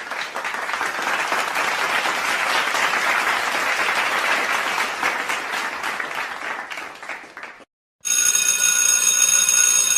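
Crowd applauding, an even clatter of clapping for nearly eight seconds. After a short gap, a bell rings steadily with a metallic, even tone.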